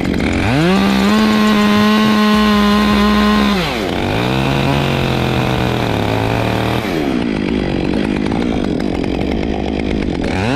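Gasoline chainsaw making a horizontal felling back cut in a tree trunk. It revs up to a high steady whine, then its pitch drops about four seconds in and stays lower and rougher as the chain bites into the wood, before revving up again at the end.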